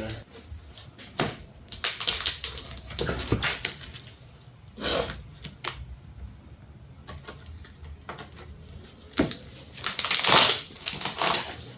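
Large cardboard box being cut and pulled open: irregular scrapes, rips and knocks, loudest in a rush of about a second near the end.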